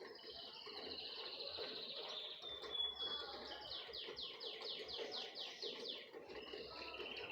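Small birds singing in high-pitched notes: a buzzy trill, a short clear whistle, then a quick run of down-slurred notes at about four to five a second, and another trill near the end.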